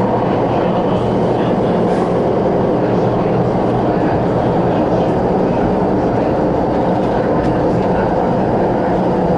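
Steady running noise heard inside a CRRC Changchun-built MTR West Rail Line electric train in motion: a dense, even rumble with a steady low hum.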